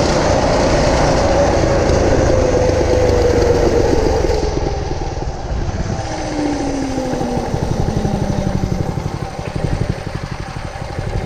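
Mega Moto 212cc minibike's single-cylinder four-stroke engine running under way, its pitch falling slowly as the revs drop, then dropping lower again about halfway through as the engine slows.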